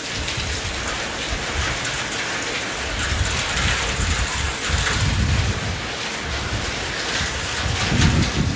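Steady downpour of rain hitting the ground and surfaces, a dense even hiss, with low rumbles swelling now and then, strongest near the end.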